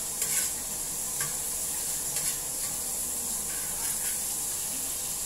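Minced garlic sizzling in melted margarine in a frying pan: a steady hiss, with a few brief stirring strokes in the first couple of seconds.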